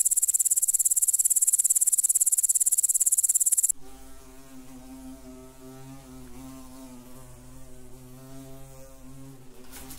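A grasshopper's high-pitched, rapidly pulsing stridulation, loud, stops abruptly about four seconds in. A wasp's steady, much quieter wingbeat buzz follows.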